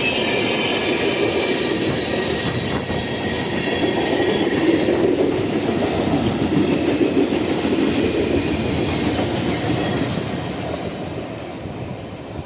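Train cars rolling past on the rails, a steady rumble and clatter with high wheel squeal, fading a little near the end.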